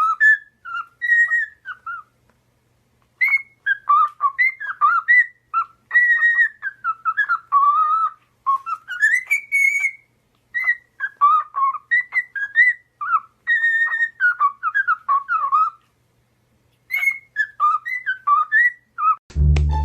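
A parrot whistling a tune: phrases of clear, gliding whistled notes, broken by two short pauses, about two seconds in and again near the end.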